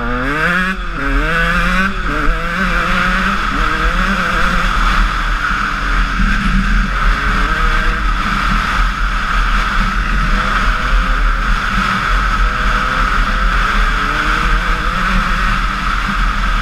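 Honda CR125 two-stroke single-cylinder motocross engine under way, revving up and down several times in the first few seconds, then running at a steadier speed.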